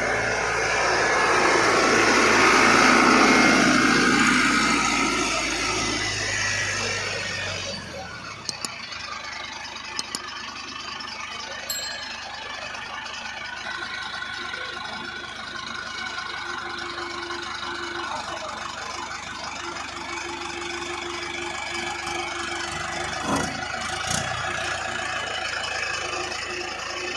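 Tractor diesel engine running, loud for the first several seconds and then falling to a quieter steady run about eight seconds in. A few short sharp clicks are heard over it.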